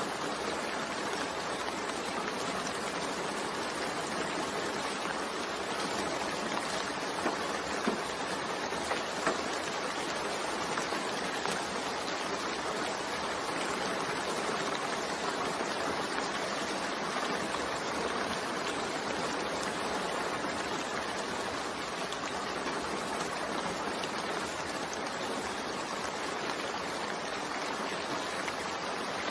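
Steady rainfall: a continuous even hiss of rain, with a few sharper drop ticks about seven to nine seconds in.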